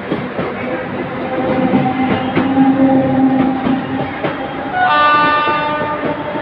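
Electric multiple unit local train running, with the clatter of wheels over rail joints, and a horn sounding once about five seconds in for just over a second.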